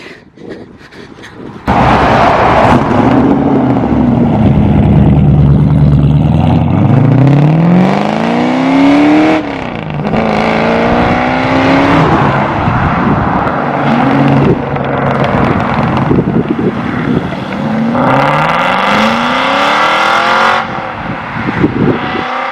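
600 bhp Ford Mustang V8 accelerating hard away, loud. It comes in suddenly about two seconds in, and the note climbs through the revs several times, dropping back sharply between each climb as it changes gear.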